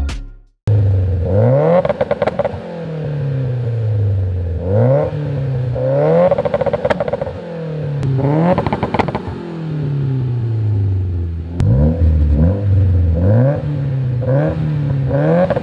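Turbocharged Mitsubishi Evo X 4B11T inline-four revved repeatedly while standing still: each rev climbs quickly and falls back more slowly, with the exhaust popping and crackling as the revs drop. Near the end the revs come in quicker, shorter blips with more pops.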